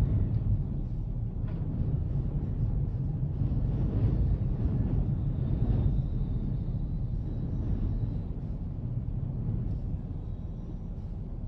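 Strong wind buffeting the microphone: a heavy low rumble that surges in gusts, strongest in the middle and easing a little near the end.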